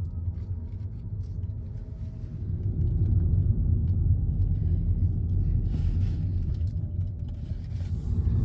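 Car cabin road noise: a steady low rumble of engine and tyres while driving, growing louder about two and a half seconds in, with two brief rushes of hiss near the end.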